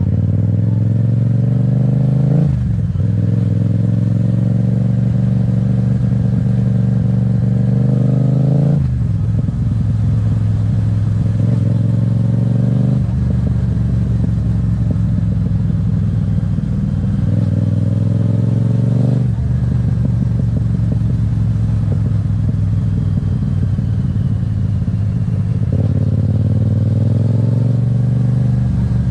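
Yamaha MT-07's parallel-twin engine running under way, its pitch climbing and then dropping abruptly four times, as at upshifts, with a fresh climb near the end.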